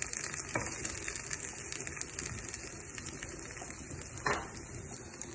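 Steady watery hiss of food cooking on a stove, with two short knocks, one about half a second in and one about four seconds in.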